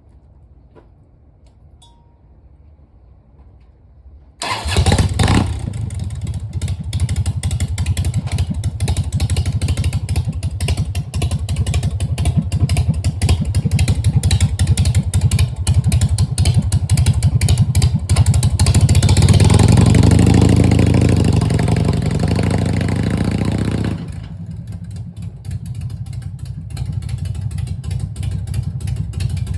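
Harley-Davidson Softail's 1340 cc Evolution V-twin starting up about four seconds in, then running with a rapid pulsing beat. It swells louder and higher for a few seconds and then settles to a lower, quieter run near the end.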